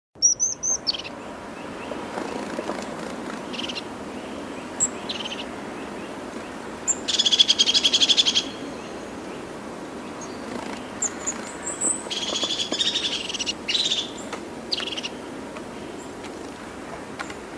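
Wild birds calling: short high chirps and two longer rapid trills, over a steady outdoor hiss.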